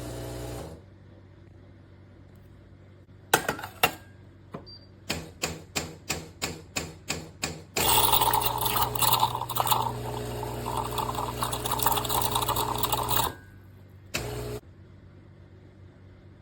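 Philips fully automatic espresso machine working through a brewing cycle. A short hum is followed by two clicks, then a run of even clicking at about three to four a second. Then about five seconds of loud whirring mechanical noise stops abruptly, with one brief burst after it.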